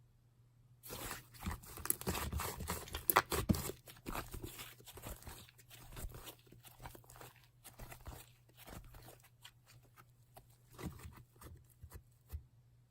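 Slime being squished and stretched by hand, giving dense crackling and popping clicks. They start about a second in, are loudest over the next few seconds, then thin out to scattered pops.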